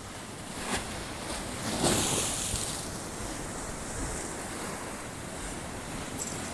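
Sea waves washing onto the shore, with one wave breaking louder about two seconds in, and wind rumbling on the microphone.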